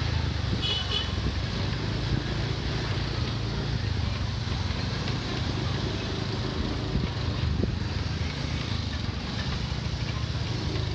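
A motor vehicle running through night traffic: a steady engine hum with road and wind noise. A short high beep sounds about a second in.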